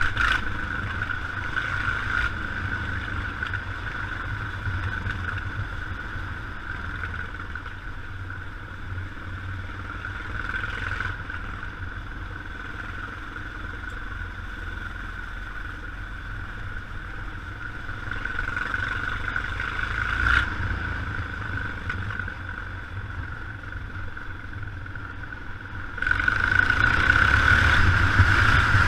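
Yamaha XT 600 single-cylinder four-stroke engine running steadily during a ride, mixed with wind and tyre hiss on a wet road. The rushing noise gets clearly louder near the end.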